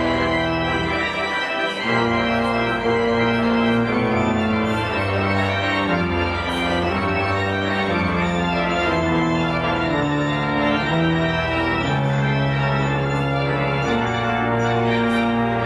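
Church pipe organ playing full, sustained chords that move steadily from one to the next, with a held bass line underneath.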